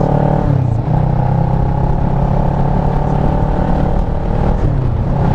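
Kawasaki ER-6f's parallel-twin engine running at a steady cruise, heard from the rider's helmet over constant wind rumble on the microphone. The engine note dips briefly about half a second in and again near the end.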